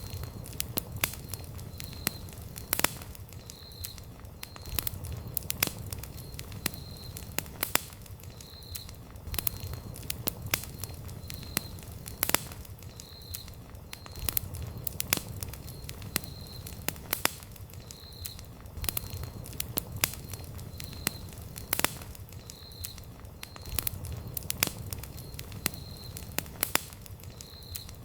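Wood campfire burning, crackling with frequent sharp pops over a steady low rumble of the flames.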